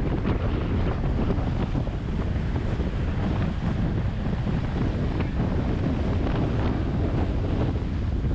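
Steady wind rush buffeting the microphone of a moving motorcycle, strongest in the low rumble.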